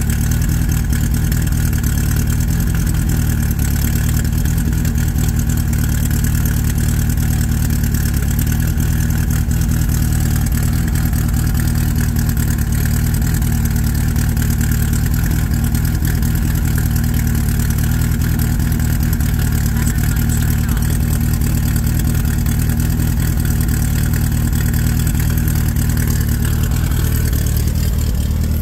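Rear-mounted air-cooled VW flat-four engine of a 1982 Bremen Sebring kit car idling steadily.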